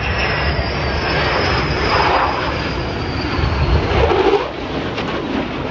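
Roar of a Thunderbirds F-16 jet fighter flying by, with a high whine that falls slowly in pitch as it passes and a slight drop in loudness near the end.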